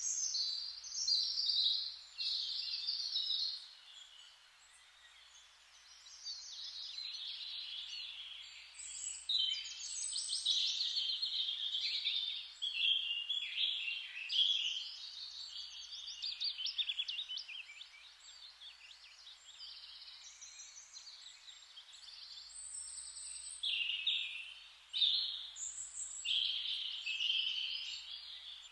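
Several songbirds singing and chirping over one another, with a faint steady hiss beneath. The singing drops off briefly about four seconds in and again for a few seconds past the middle.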